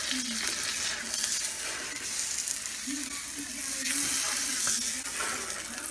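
Salmon fillets frying in oil in a pan on an electric stove: a steady sizzle with small crackles.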